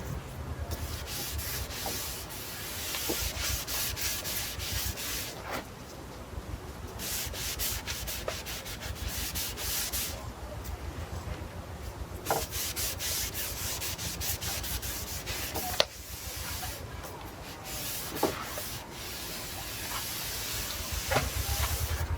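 Oil brush stroking back and forth over larch planks: runs of dry swishing broken by short pauses, with a few light taps.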